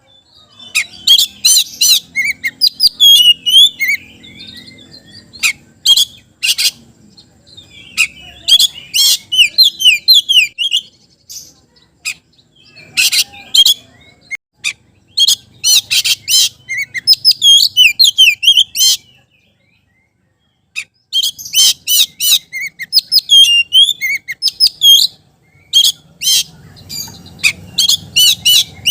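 Oriental magpie-robin (kacer) in full song: loud bursts of rapid, high, sweeping whistles and chattering notes, broken by short pauses, with a gap of over a second about two-thirds of the way through.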